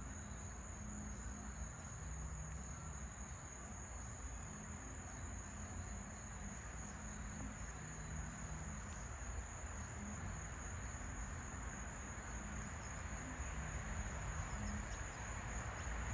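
Crickets trilling in one continuous high-pitched drone, over a steady low rumble.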